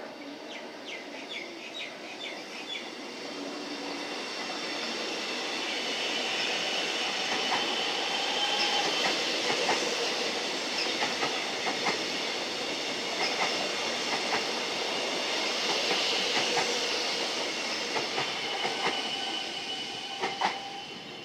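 Melbourne Metro suburban electric train passing through a station, growing louder over the first several seconds and then holding, with scattered clicks of the wheels over rail joints and a steady high squeal from the wheels.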